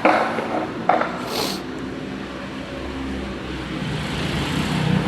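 Skateboard deck clacking twice, at the start and about a second in, as an ollie is popped and landed, then the urethane wheels rolling with a steady rumble over wet pavement.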